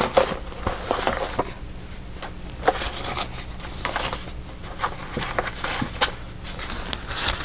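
Paper pieces and packaging being handled and sorted: irregular rustling with small taps and clicks.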